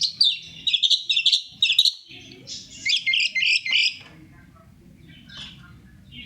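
Long-tailed shrike singing a fast, varied chatter of chirps and warbled notes, which breaks off about four seconds in, followed by a faint call or two.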